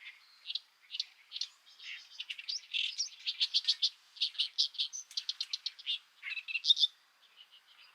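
A songbird singing a long, fast twittering run of short high notes, thickest through the middle and dying away near the end, over a faint steady high-pitched tone.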